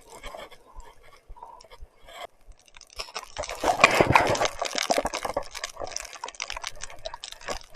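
Wet crackling and splashing from riding in heavy rain and mud, with many small clicks and drips. It swells loudest from about three seconds in to past five seconds, then settles back.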